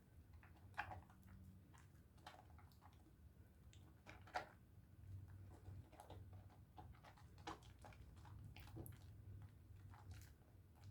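Faint, irregular squishing and clicking of wet hands lathering a bar of pink Dove soap, over a low steady hum.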